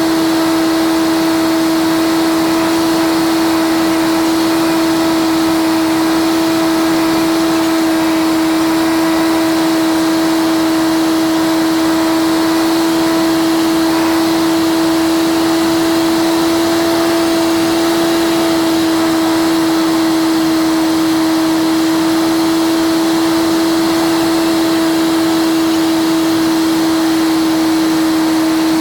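Cessna 152 engine and propeller drone heard inside the cockpit, played sped up so it sounds as a steady high-pitched hum over a hiss, with no clear change in power.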